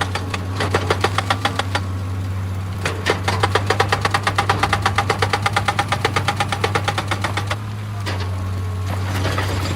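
Excavator's diesel engine running steadily while a hydraulic rock breaker hammers stone in rapid, even blows, about eight a second. There is a short burst, then a longer run that stops about three-quarters of the way through.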